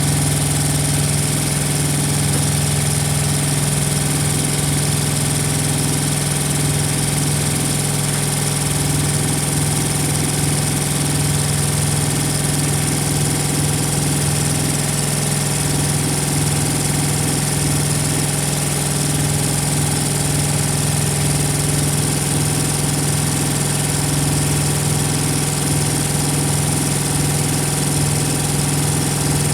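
Diesel engine of a Thermo King TriPac truck auxiliary power unit (APU) running at a steady idle, an even hum with no change in speed.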